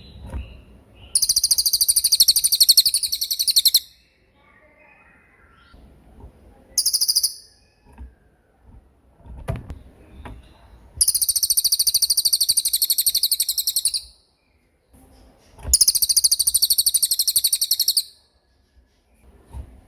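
A small songbird singing rapid, very high rolling trills in bursts of about three seconds, one of them much shorter, with pauses between.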